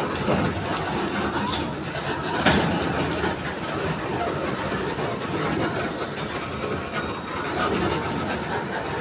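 Empty coal freight wagons rolling slowly past close by: a steady rumble of steel wheels on the rails with scattered clanks, one louder knock about two and a half seconds in.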